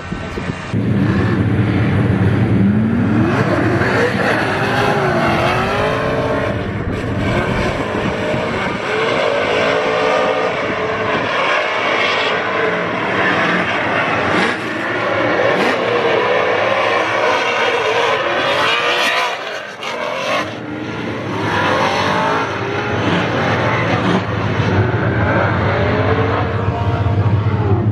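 Drift cars running on the track, engines revving with the pitch swinging up and down again and again, the sound dipping briefly about twenty seconds in.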